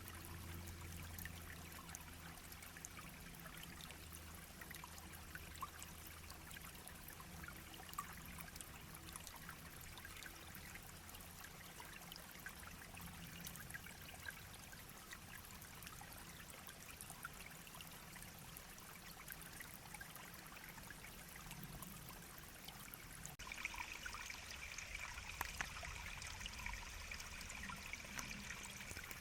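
Small brook babbling and trickling steadily. About six seconds before the end, a steady high-pitched hiss joins in.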